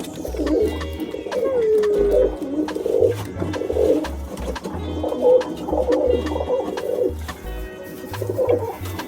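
Domestic pigeons cooing repeatedly, over a background music track with a stepping bass line.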